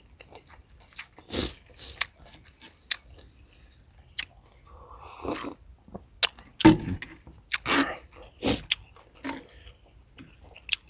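Close-up eating sounds: a person biting and chewing food in irregular bursts, louder about two-thirds of the way in. A faint steady high whine runs underneath.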